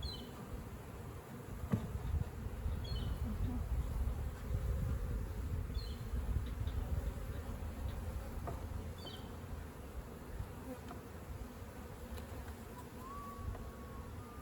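Honeybee colony buzzing steadily around an open hive as its frames are inspected. A short, high two-note chirp repeats about every three seconds over the buzz.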